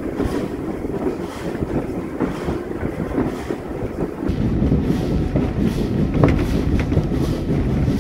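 Steam-hauled heritage train running along the line, heard from a carriage window: a steady noise of wheels on the track with faint regular beats about twice a second, and wind buffeting the microphone, heavier from about halfway.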